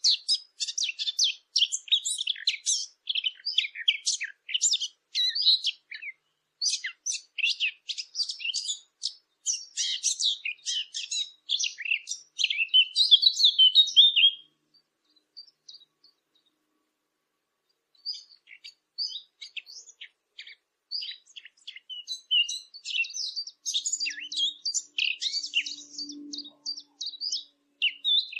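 A small songbird, the 'fig bird' (usfur al-tin) used as a hunting lure, singing a fast, chattering song of high, quick notes. The song stops for a few seconds about halfway through, then starts again.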